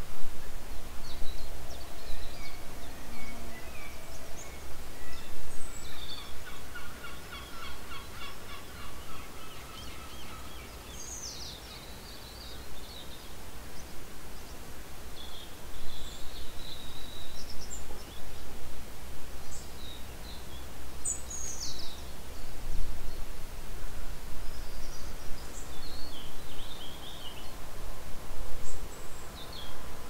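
Birds calling outdoors: scattered short calls, with a rapid run of repeated notes lasting several seconds about six seconds in.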